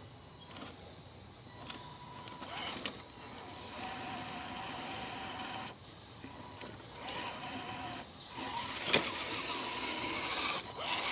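Electric motor and gears of an Axial SCX10 Deadbolt RC crawler whining in short stretches as it struggles to get positioned in the mud, with a couple of sharp clicks. Crickets or other insects drone steadily behind.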